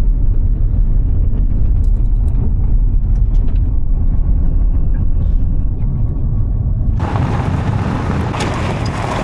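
A vehicle driving, a steady low rumble of engine and road noise. About seven seconds in it abruptly turns brighter, with added hiss.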